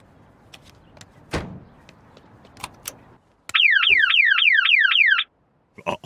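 Alarm-like electronic warble, a tone falling quickly over and over about five times a second for under two seconds, after a few faint clicks and a soft thud.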